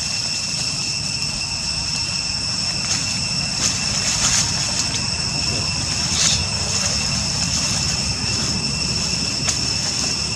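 Steady high-pitched drone of an insect chorus over a low rumble, with a few light clicks.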